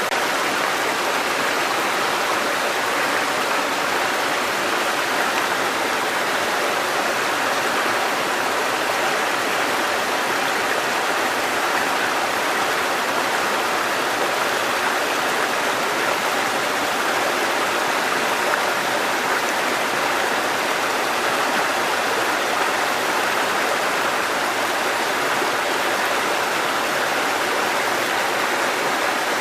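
Water cascading over rocks in a mountain stream, a steady, even rushing.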